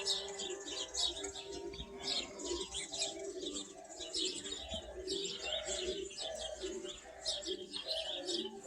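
Many small birds chirping rapidly and continuously, with a dove cooing underneath in a run of low, evenly spaced notes.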